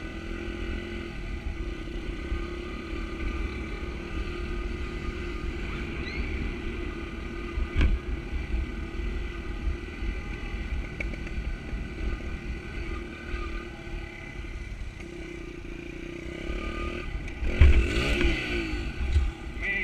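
Small pit bike engine running steadily under way, with a heavy low rumble over it. About 17 to 19 seconds in it gets louder and rougher.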